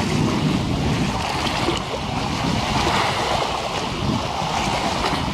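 Small waves lapping against a harbour foreshore, a steady wash of water, under a low wind rumble on a pocket camera's foam-covered built-in microphone.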